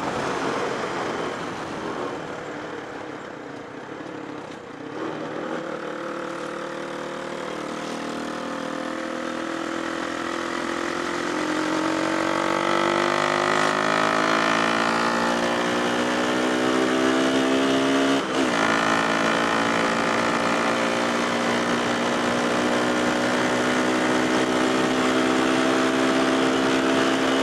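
Motorcycle engine heard from the rider's position, running low and quiet as the bike slows at first. It then rises steadily in pitch as it accelerates over several seconds and holds a steady drone for the second half, with one brief break about two-thirds of the way through.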